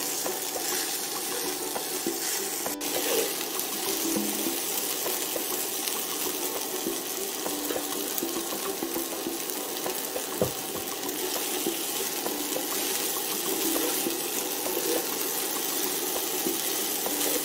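Fried rice and vegetables sizzling steadily in a hot frying pan as they are stirred and turned with a wooden spatula, with one sharp knock about ten seconds in.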